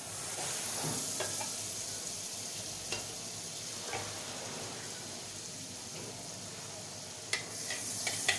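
Butter sizzling as it melts on a hot tawa over a gas flame, the hiss starting suddenly as it hits the pan. A few light clicks and scrapes, more of them near the end.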